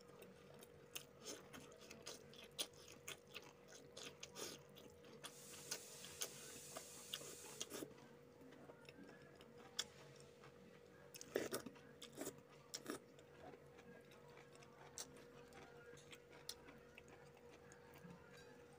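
Quiet mouth sounds of a person eating rice and fish curry by hand: chewing, lip smacks and soft clicks, with a louder cluster about eleven seconds in. A faint steady hum runs underneath, and a soft hiss rises for a couple of seconds about five seconds in.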